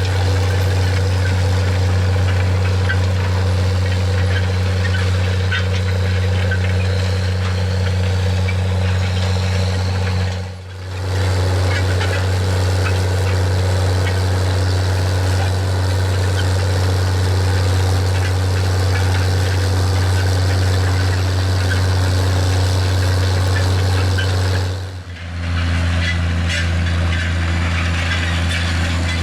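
John Deere 9420 four-wheel-drive tractor's 12.5-litre diesel engine running steadily under load while pulling a 34 ft vertical tillage disk, a deep even hum with overtones. The sound dips out briefly twice.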